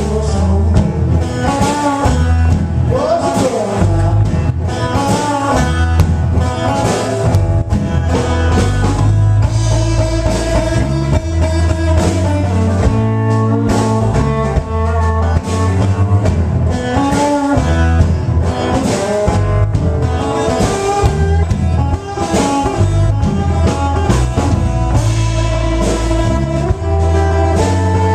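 Blues band playing live, with electric guitar, a pulsing bass line and a drum kit, loud and steady throughout.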